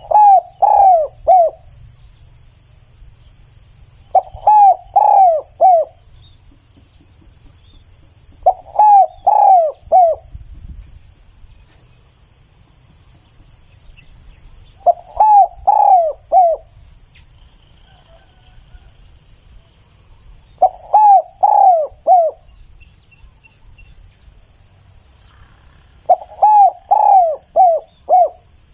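Spotted dove cooing: six phrases of about four coos each, one roughly every five seconds. Faint steady insect chirring runs high underneath.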